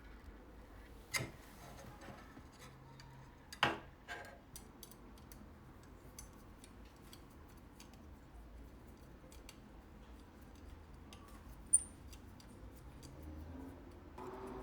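Quiet handling of small objects: a few sharp clicks or taps, the loudest about one and about three and a half seconds in, with fainter light ticks scattered throughout. A very brief high-pitched chirp comes late on.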